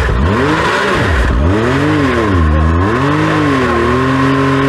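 Side-by-side UTV engine revving up and down several times in quick swells as the machine works over rough trail, settling to a steadier speed near the end.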